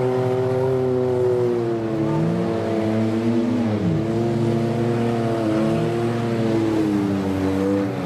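Engines of several 1990s-and-newer demolition derby cars running and revving together, their pitches rising and falling against each other as the cars manoeuvre.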